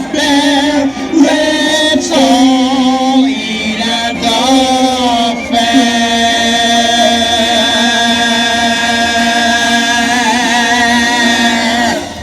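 Several voices singing in harmony to close a song, ending on a long held chord that stops just before the end.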